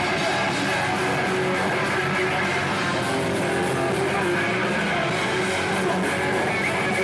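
Hardcore band playing live: loud electric guitars in a steady, dense wall of sound.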